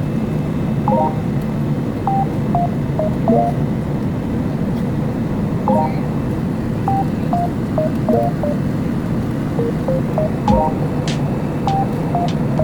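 A short electronic melody of brief beeping tones, repeated about every five seconds, over a steady low rumble like engine or cabin noise.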